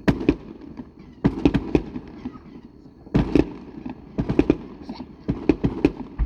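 Fireworks bursting in rapid clusters of sharp bangs, with a few groups of quick-fire reports about a second apart.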